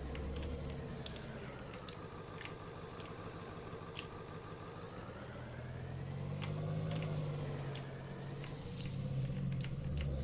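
A truck's engine running at low speed, heard from inside the cab, its pitch slowly rising and falling, with sharp irregular clicks and rattles throughout.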